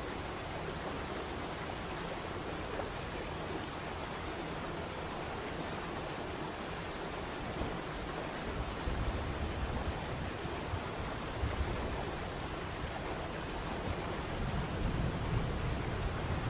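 Waterfall: a steady rush of falling water. Uneven low rumbling comes in from about halfway through.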